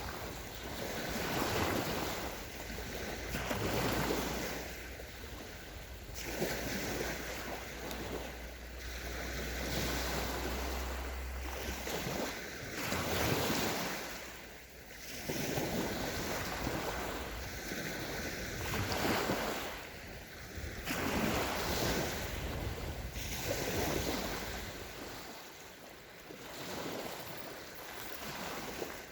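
Small sea waves breaking and washing up a sandy beach, one wash every few seconds, with a light rumble of wind on the microphone through the first half.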